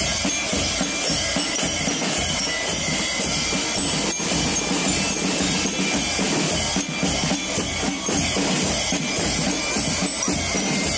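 Band music with drums playing steadily throughout, a continuous dense sound with a repeated low drum beat.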